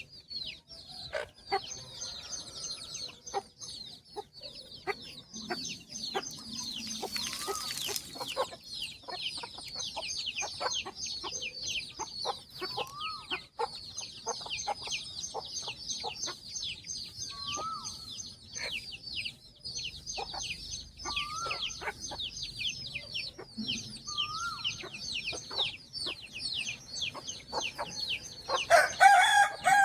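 A brood of chicks peeping continuously in high, quickly falling chirps, with a hen's short, lower calls now and then. A louder, longer chicken call rings out near the end.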